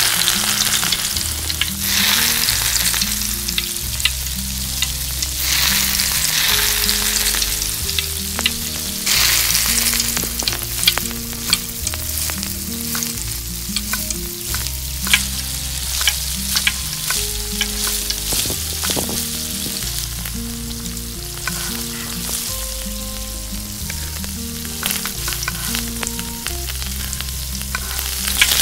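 Food frying in hot oil in a miniature pan: a steady sizzle with frequent small crackles and a few louder pops, and stirring.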